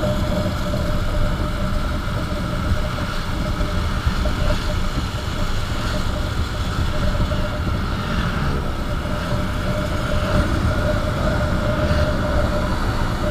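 Motorcycle riding at steady speed: wind rumble on the rider's microphone over the engine's steady hum.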